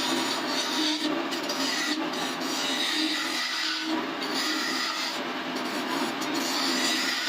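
Wood lathe running, with a tool or stick rubbing steadily against the spinning wooden leg.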